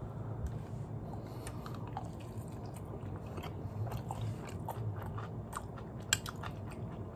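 A person chewing a mouthful of rice with bulgogi beef and pickled radish, with small wet mouth clicks over a low steady hum. A brief sharper click comes about six seconds in.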